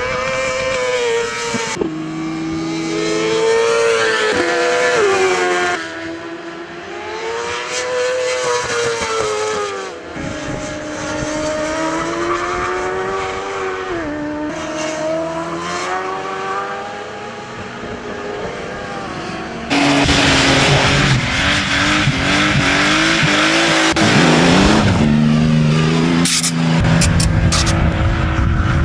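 Racing motorcycle engines revving up and falling back again and again through corners, in several clips cut together. About two-thirds of the way through, a louder, rougher stretch begins, with more than one engine heard at once.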